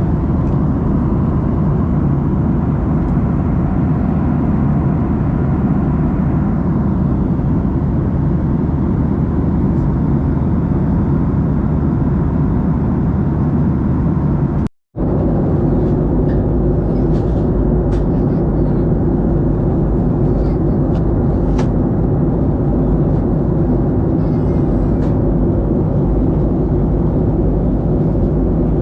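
Steady cabin drone of a Boeing 737-800, its CFM56 engines and airflow making a loud even rumble. It drops out for a moment about halfway through, then goes on as a steadier hum with a few faint clicks.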